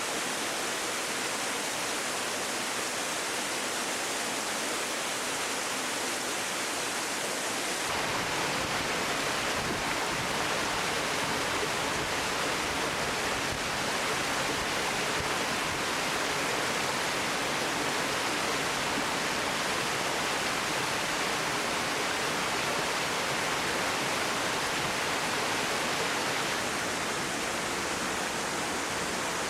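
Steady rush of water in a mountain stream. About eight seconds in it becomes a little louder and deeper.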